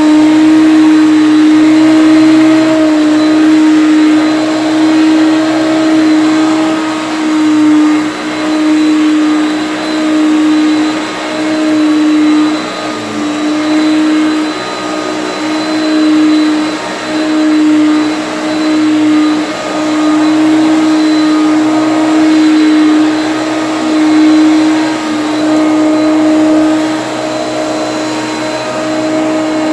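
Hoover Concept One upright vacuum cleaner running with a steady motor whine, its sound swelling and dipping every second or two as it is pushed back and forth over carpet mats. Its roller brush bearings are freshly greased and it sounds a lot more free.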